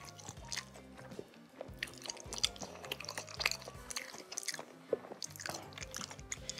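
Close-up chewing and wet mouth sounds of someone eating cilok, chewy tapioca-flour balls in spicy chili sauce, in irregular little clicks. Soft background music plays underneath.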